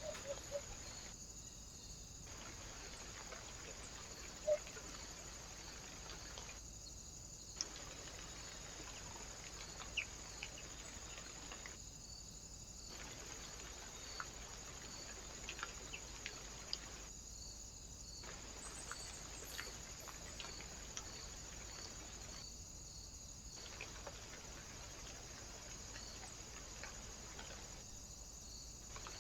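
Steady hiss and high whine from a trail camera's own microphone and electronics, with a few faint sharp clicks scattered through it. The hiss dips briefly about every five and a half seconds.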